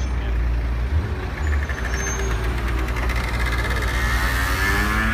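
Ferrari F40's twin-turbo V8 rumbling deep and steady as the car creeps along at walking pace, its engine note rising near the end.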